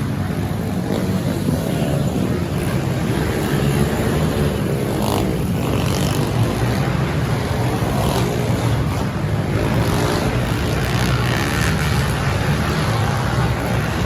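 Several small pit bike engines revving up and down as they race around a tight indoor dirt track, their pitch rising and falling over a steady low drone.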